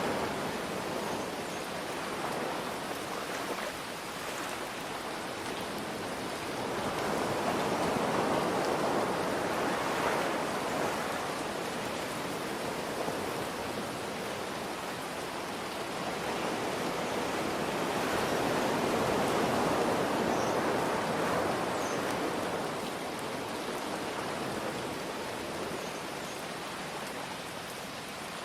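Ocean waves washing in under a steady hiss of rain, the surf swelling louder twice and easing back in between.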